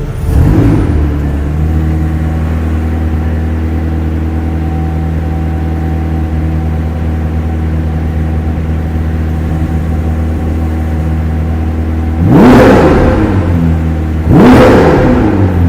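McLaren 765LT's twin-turbo V8 surging briefly, then settling to a steady idle. Near the end the throttle is blipped twice, the revs climbing sharply and falling back each time.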